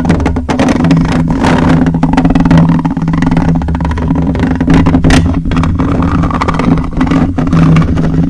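A small motor buzzing steadily at a fixed pitch, with scratchy noise and scattered clicks over it.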